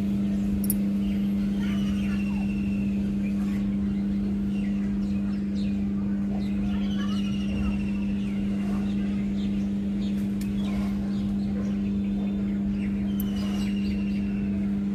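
A steady low hum runs throughout, with birds chirping over it and giving a few short trilled calls every few seconds.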